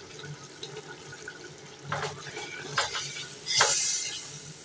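Boiled goat tripe sizzling in hot oil and masala in a pot while being stirred with a spoon; the sizzle swells in a few bursts, the loudest a hissing rush a little past halfway.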